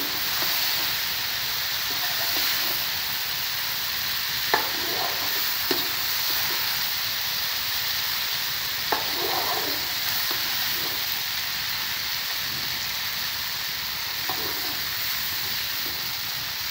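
Boiled cowpeas (desi lobia) frying in a tomato and yogurt masala in a non-stick wok: a steady sizzle as they are stirred and fried down with a metal slotted spoon. The spoon knocks against the pan a few times.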